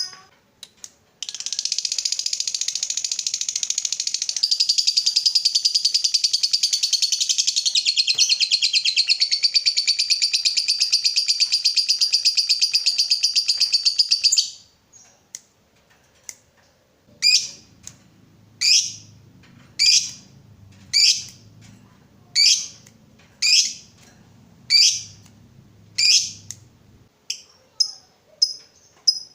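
Lovebird giving a long rapid chattering trill, the 'ngekek panjang' prized in fighter lovebirds, which lasts about thirteen seconds and stops abruptly. It then gives single sharp chirps about once a second, and quicker short chirps near the end.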